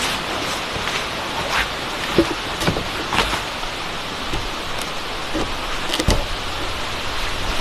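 Steady heavy rain, with scattered sharp drops and taps striking a surface.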